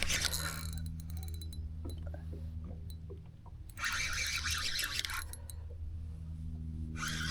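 Fishing reel being cranked in short spells of whirring, with the line under load from a hooked redfish. A steady low hum runs underneath.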